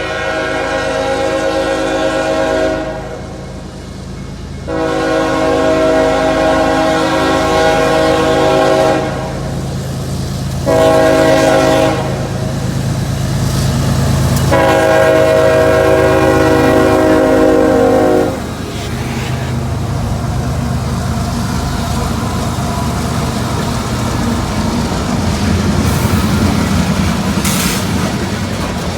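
Diesel locomotive horn of the lead unit, a CSX GE ES44AH, sounding the grade-crossing signal: long, long, short, long. After it stops, the locomotives' engines and the train's wheels run by with a steady low rumble.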